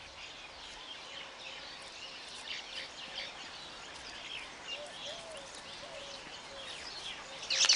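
Weaver birds chattering: many short, high chirps over a steady background hiss, with a louder burst of calls near the end.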